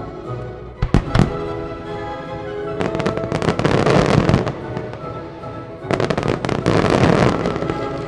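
Fireworks display over its music soundtrack: a couple of sharp bangs about a second in, then two loud stretches of dense, rapid fireworks pops and bursts, one just before the middle and one near the end.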